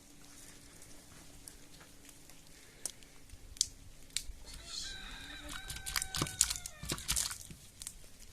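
Scattered clicks and crunches, with an animal call about five seconds in, held for about a second and a half on a steady pitch.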